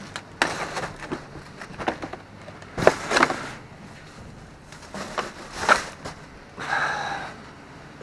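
Rummaging through trash in a dumpster: irregular rustles, scrapes and knocks as items are shifted and pulled out. Near the end comes a short scrape with a squeaky, pitched edge.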